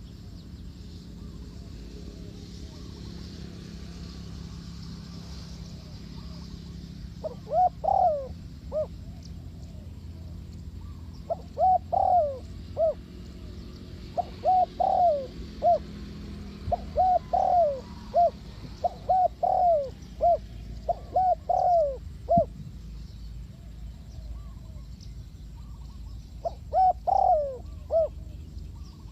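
Spotted dove cooing: phrases of short, repeated coos that begin several seconds in, run on through the middle and come back near the end.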